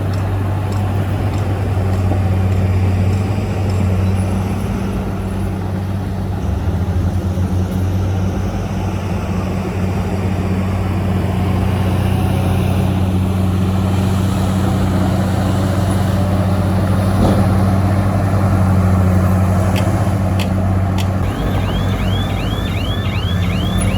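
Heavy diesel earthmoving machinery, dump trucks and a bulldozer, running steadily with a deep, even engine drone. A rapid series of high squeaks, about four or five a second, starts near the end.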